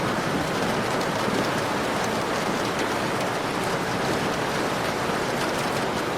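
Heavy rain falling steadily, an even hiss of drops with no thunderclap.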